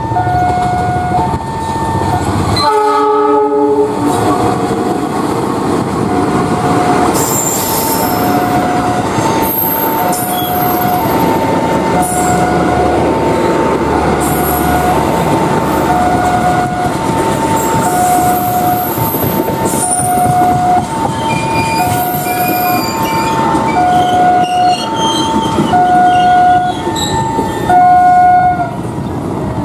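A CC206 diesel-electric locomotive hauling economy coaches passes a level crossing while the crossing's warning signal sounds a steady two-tone alternating chime. The locomotive gives one horn blast of about a second, about three seconds in. The wheels squeal and clatter as the coaches roll by into the station.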